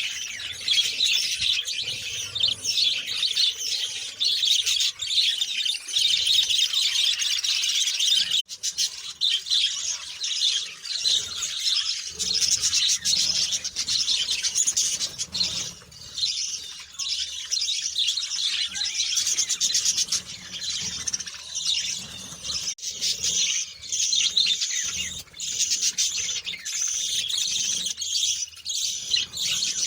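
Many small birds chirping and twittering at once, a dense unbroken chatter of short high calls.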